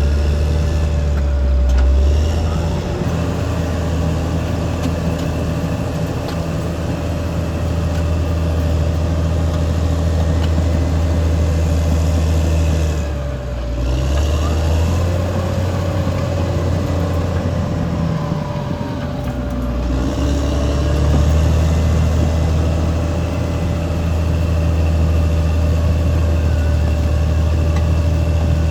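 Caterpillar D6R XL bulldozer's diesel engine running steadily under load, with a constant whine above the engine note. Twice near the middle the engine note dips briefly and then recovers.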